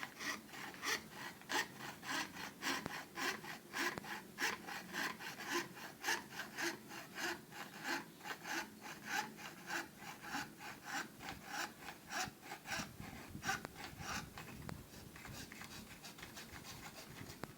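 Hand saw cutting thin plywood, back-and-forth strokes at about three a second. The strokes thin out and grow fainter over the last few seconds.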